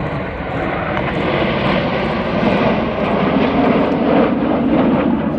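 Formation of BAE Hawk jet trainers flying past; the jet noise swells to its loudest about four seconds in, then starts to ease.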